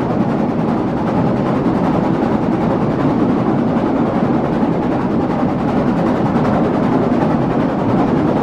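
Narrow-gauge train running steadily, its wheels and carriage rattling in a continuous dense clatter, heard from aboard an open coach.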